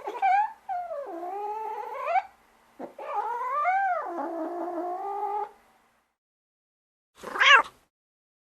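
Domestic cat yowling: two long, wavering, drawn-out yowls, then a short sharp meow near the end.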